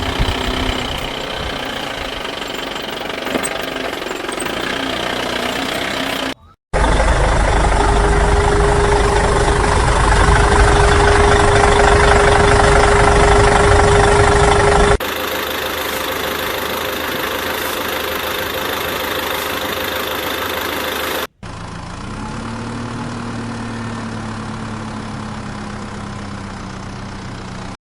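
Engine-like running noise from toy vehicles, in four stretches joined by abrupt cuts. The second stretch is the loudest and carries a steady whine. The last carries a whine that rises briefly and then slowly falls.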